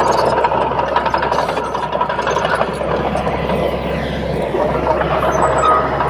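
Komatsu D31P crawler bulldozer working: its diesel engine runs steadily while the steel tracks clank and rattle.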